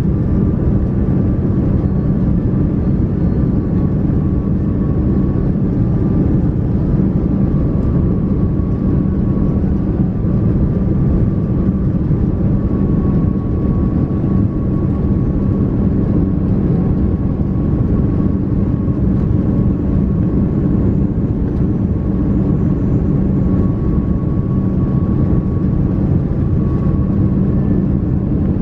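Steady drone of an Airbus A330-300's Rolls-Royce Trent 700 engines and rushing air, heard from inside the cabin: a low rumble with a faint steady whine above it.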